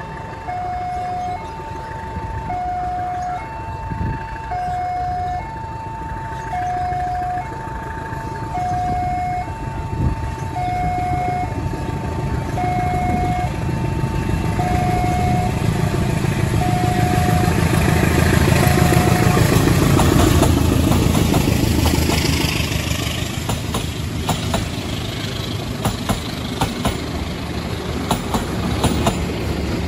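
Railway level crossing's electronic warning alarm, alternating between a high and a low tone, each held a little over half a second; it stops about two-thirds of the way through. Meanwhile a diesel locomotive hauling passenger coaches approaches and passes, its engine rumble swelling to a peak. Near the end come the sharp clicks of wheels over rail joints.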